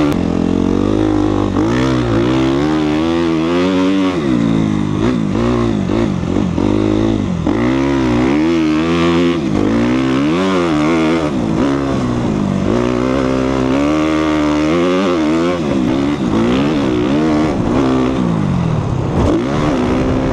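2014 Suzuki RM-Z250's single-cylinder four-stroke engine ridden hard, revving up and falling back over and over as the throttle is opened and shut every second or two.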